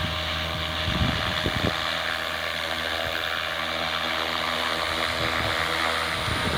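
Devil 380 electric RC helicopter in steady flight, its rotors and motor giving a continuous hum at an even pitch.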